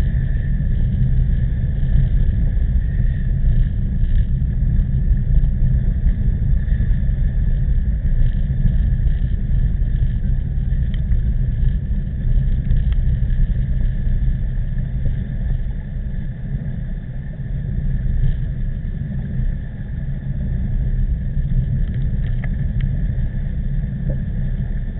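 Steady low rumble of wind buffeting the microphone of a camera riding on a moving bicycle in strong typhoon winds, with a faint steady higher hum over it.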